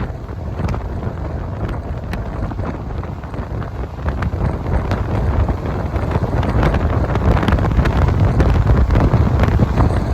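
Moving passenger train heard from on board: a steady low rumble with frequent clicks and rattles from the wheels and coach, and wind buffeting the microphone. It grows louder about halfway through as the train picks up speed.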